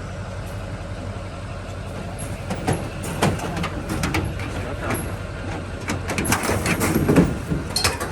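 A vehicle engine idling with a steady low hum. From about two and a half seconds in, a run of sharp knocks and rattles grows busier and is loudest near the end.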